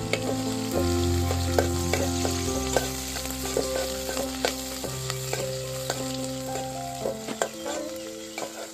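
Sliced onions and curry leaves frying and sizzling in a metal pot, stirred with a metal ladle, with many short sharp clicks throughout.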